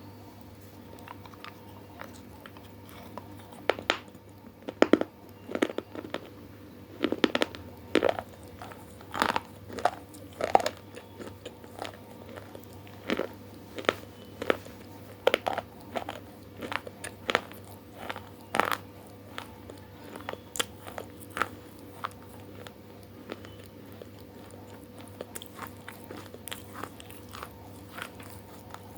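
Close-miked eating: crisp food bitten and chewed in loud, irregular crunches, thinning to lighter chewing in the last few seconds, over a faint steady hum.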